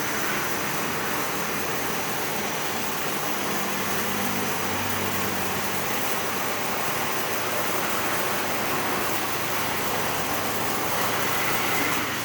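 A steady motor running with a constant broad hiss, with a low hum that grows stronger about four seconds in.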